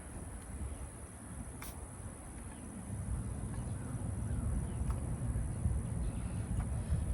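Outdoor ambience: a fluctuating low rumble of wind on the microphone, growing louder about halfway through, under a steady high insect drone and a few faint clicks.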